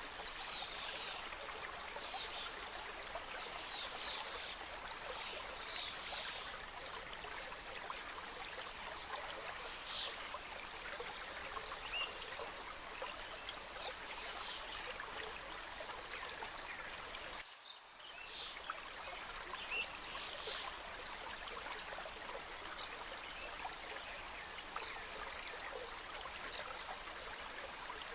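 Mountain stream flowing and cascading over rocks: a steady rushing babble with small bright splashes, dipping briefly a little past two-thirds of the way in.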